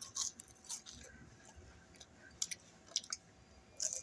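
A person chewing a mouthful of french fries close to the microphone, with faint wet mouth clicks scattered irregularly throughout.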